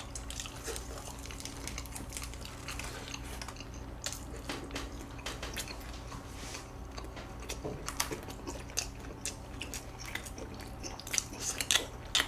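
Close-miked chewing of a pork belly and perilla leaf wrap: soft wet mouth sounds and small smacks and clicks, a little louder near the end.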